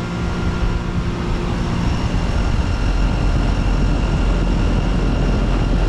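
2009 Arcoaire 7.5-ton commercial air-conditioning condenser running steadily: a hum of the Copeland scroll compressor with steady tones over the rush of the condenser fan. A low rumble under it grows a little louder about two seconds in.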